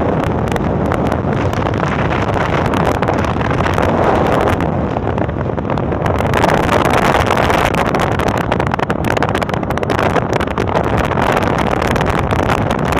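Wind buffeting and crackling on the microphone over the steady rush of a moving vehicle.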